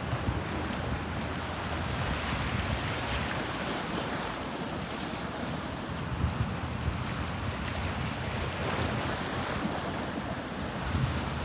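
Sea waves washing steadily, with wind buffeting the microphone in occasional low gusts.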